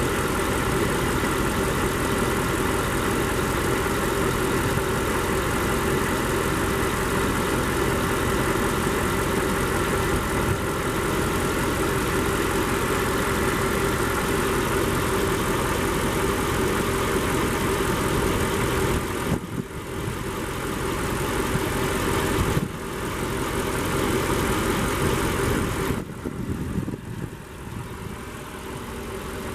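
2003 Mercedes G500's 5.0-litre V8 engine running steadily. It gets quieter for moments a few times near the end.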